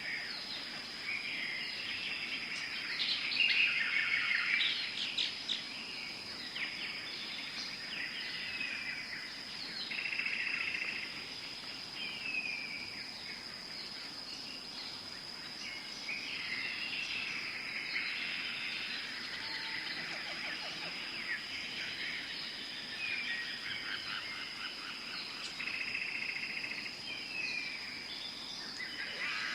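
Tropical forest ambience: many birds calling at once, with chirps, trills and down-slurred whistles, over a steady high-pitched tone. The calls are loudest about four seconds in.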